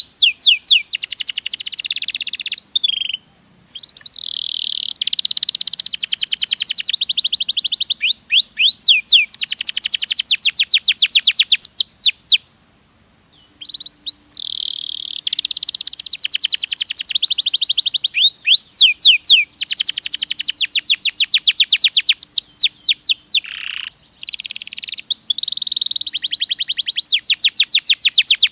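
Domestic canary singing long phrases of rapid trills, each made of quick falling whistled notes repeated many times a second. The song breaks off briefly three times, about three seconds in, around the middle and near the end.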